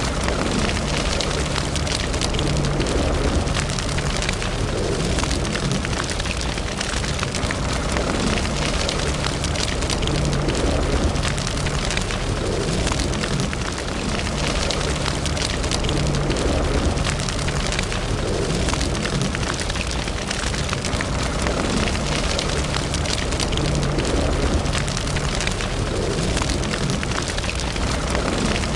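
Wood fire burning in a fireplace, crackling steadily with frequent small pops and snaps over a constant hiss and low rumble.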